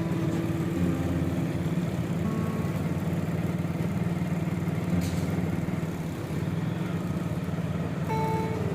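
Busy bazaar street traffic: vehicle engines running and idling in a steady low rumble, with one brief sharp sound about five seconds in.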